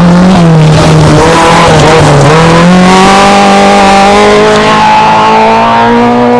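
Rally car engine at high revs, its pitch wavering and then climbing steadily as the car accelerates, with some tyre noise.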